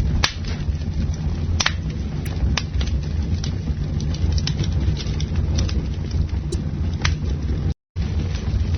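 Wood campfire burning with a steady low rumble and scattered sharp crackles and pops. The sound cuts out for an instant near the end.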